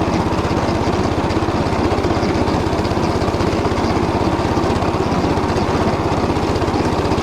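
Small engine running steadily under load, driving a Motor Sich rotary tiller through stubble, with a rapid, even pulsing.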